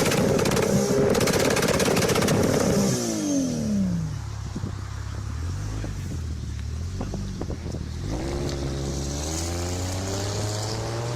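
Toyota Supra MK4's inline-six engine held at high revs with rapid crackling, then the revs drop away to a low idle with a few scattered pops. From about eight seconds in the revs climb steadily again.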